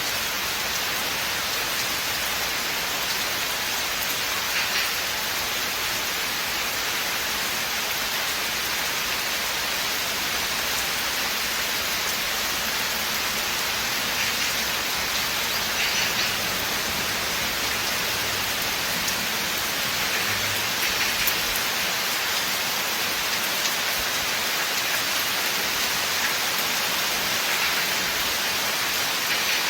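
Steady rain falling in a forest, an even hiss of countless drops on leaves and ground. It swells slightly a few times.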